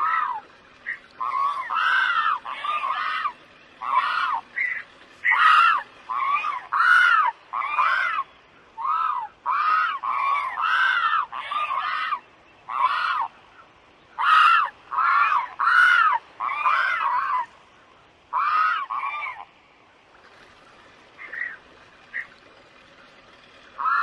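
A bird's loud, repeated short calls, each rising and falling in pitch, coming in quick runs of two or three, then thinning to a few faint calls near the end.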